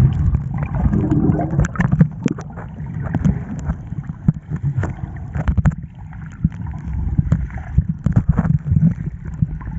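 Wind rumbling on the microphone with many irregular knocks and water splashes, as a small boat runs over choppy sea.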